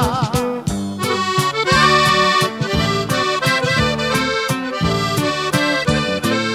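Norteño music: an accordion plays an instrumental passage between sung verses over a steady rhythmic accompaniment, after the singer's held last note with vibrato fades about half a second in.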